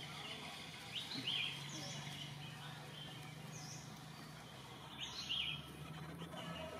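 Birds chirping outdoors: short high chirps recurring about every two seconds, with two louder bursts of quick chirps about a second in and about five seconds in, over a steady low hum.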